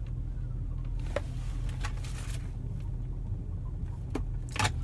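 A car idling, a steady low hum inside the cabin. Over it are a few soft rustles and knocks from handling, the loudest near the end.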